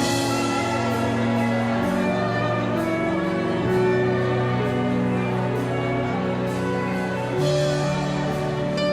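Slow instrumental worship music: held chords that shift every second or two over a soft, light beat.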